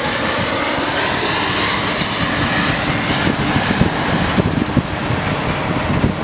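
Twin-engine jet airliner flying low overhead, a steady jet engine roar with a high whine that sinks slightly in pitch, easing off a little toward the end.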